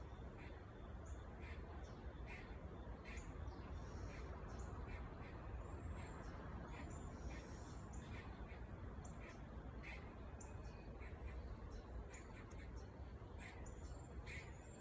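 Crickets trilling steadily in a high, evenly pulsing band, with short sharp chirping calls repeated every half second or so, which are taken for a squirrel sounding the alarm and asserting its territory. Faint throughout.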